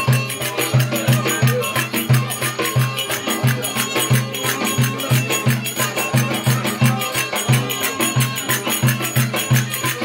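Traditional Turkish folk dance music: a low drum beating a fast, steady rhythm, about three beats a second, under a reedy wind-instrument melody.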